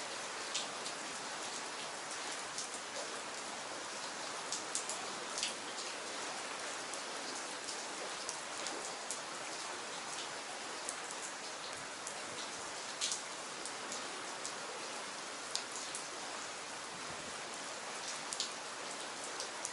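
Steady rain falling in a continuous hiss, with scattered sharp ticks of single drops hitting nearby surfaces.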